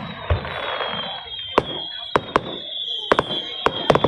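Fireworks going off: a string of sharp cracks and bangs, about eight in all. A thin, high whistling tone sinks slowly in pitch through most of it.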